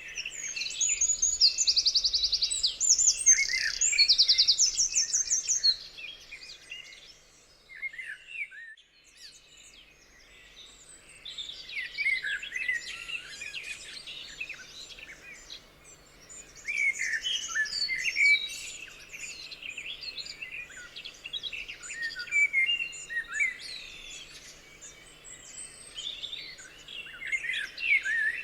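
Several songbirds singing at once in a dawn-chorus-like mix of chirps and trills. In the first few seconds one bird sings loud, fast rattling trills. After a brief lull about a third of the way through, many overlapping chirps and whistled phrases follow.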